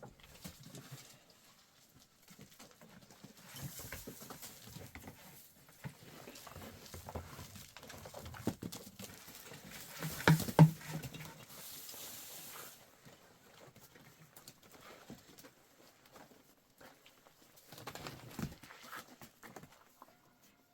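Farm animals moving about, with scattered light knocks and shuffling. A short low call about ten seconds in is the loudest sound.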